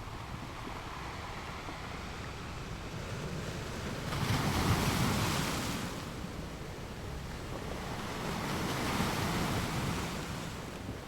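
Ocean surf: a steady wash of water noise that swells twice, as if waves were breaking and running up, about four seconds in and again near the end.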